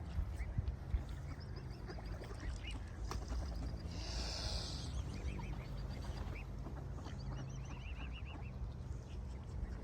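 Birds chirping in quick series of short high notes over a steady low rumble, with a brief hiss about four seconds in.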